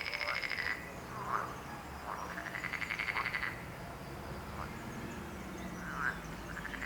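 A chorus of frogs croaking: rapid pulsed calls in trains of about a second, a couple of seconds apart, with shorter single croaks in between.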